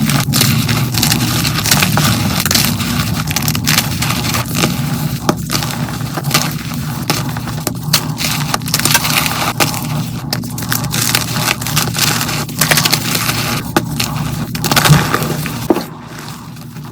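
Blocks of dyed gym chalk being crushed and crumbled by hand close to the microphone: a dense run of crunching and crackling, played at double speed. It gets quieter near the end.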